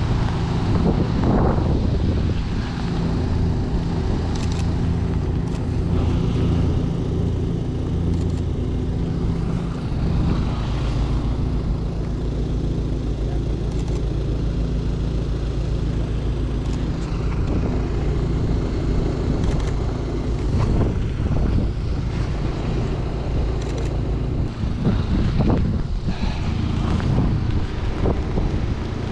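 A car engine running steadily, with a noisy outdoor haze and a few brief knocks over it.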